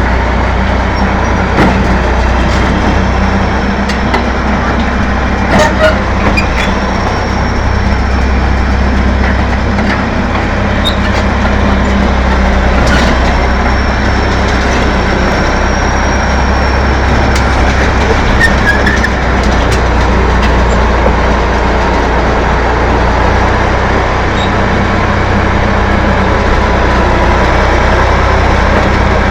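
Diesel engine of a freshly overhauled T-11.01 bulldozer running steadily, a loud, even rumble with a constant low hum.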